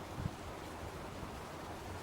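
Wind buffeting the microphone: low rumbling gusts, one brief puff about a quarter second in, over a steady hiss.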